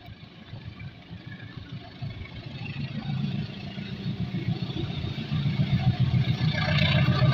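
Approaching train, a low engine rumble that grows steadily louder.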